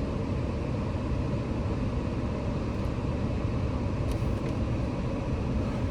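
Steady low rumble of a car's engine and tyres heard from inside the cabin as it moves slowly, with a faint click or two about four seconds in.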